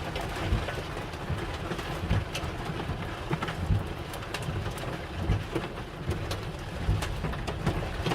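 Heavy rain and hail coming down hard: a steady hiss peppered with irregular sharp ticks of hailstones striking hard surfaces, over a low rumble.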